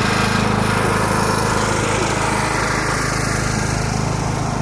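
Small engine running steadily at an unchanging idle-like speed.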